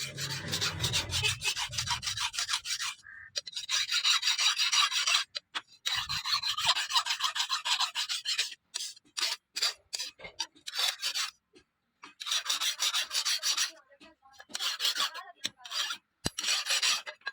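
Steel knife blade forged from a truck leaf spring being worked against an abrasive, with rapid back-and-forth scraping strokes in runs of a few seconds and short pauses between them.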